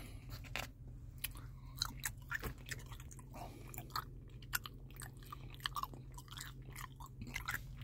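A person chewing a mouthful of pulled pork in barbecue sauce close to the microphone: soft, wet smacking and irregular small clicks.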